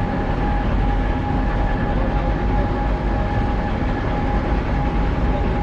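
Heavy construction machinery running steadily: a constant low engine rumble with a steady high whine on top.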